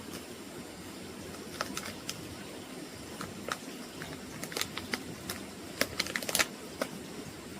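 Irregular light clicks and knocks over a steady background hiss, coming more often and louder in the second half.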